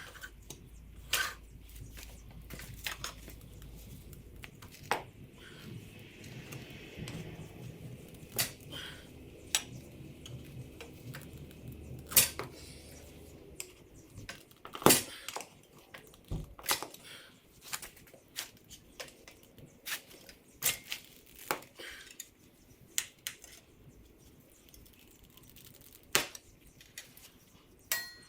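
Irregular sharp metallic clinks and knocks of tire irons against a dirt bike wheel rim as the tire bead is levered on, each knock short with a little ringing.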